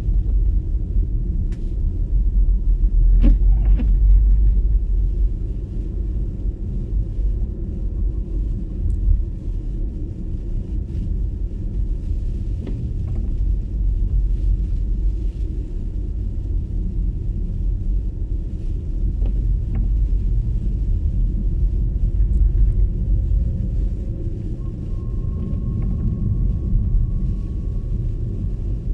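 Low, steady road and tyre rumble of an MG ZS EV electric car driving on a snowy road, with no engine note, only a few short clicks here and there.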